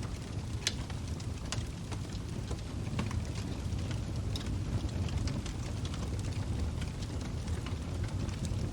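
Log fire burning, with a steady low rumble of flames and irregular sharp crackles and pops from the burning wood.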